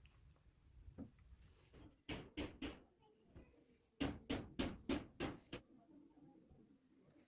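A series of light knocks or taps: three quick ones about two seconds in, then a steady run of six more at about three a second, a little after four seconds in.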